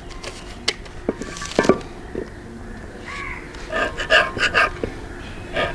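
Metal parts and hand tools being handled on the workbench: a few sharp clicks and knocks, then, about three seconds in, a quick run of short scraping strokes.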